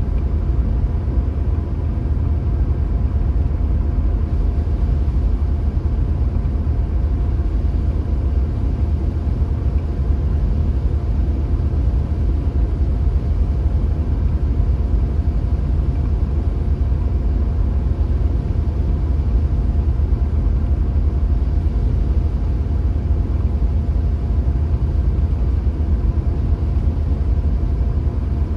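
Car driving at a steady speed: a continuous low rumble of road and engine noise with a faint steady hum, unchanging throughout.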